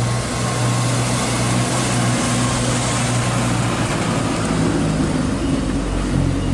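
Bus engine running, a steady low hum under a loud rushing noise, the hum shifting a little about four seconds in.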